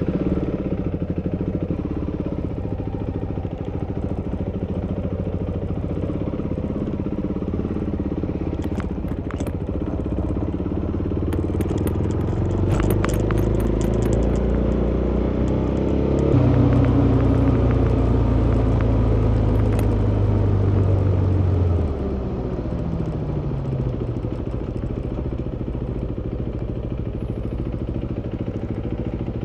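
Motorcycle engine running while under way. Its pitch climbs, it runs louder and harder for several seconds past the middle, then drops back with the revs falling away. Some light clicking and rattling comes through a little before the middle.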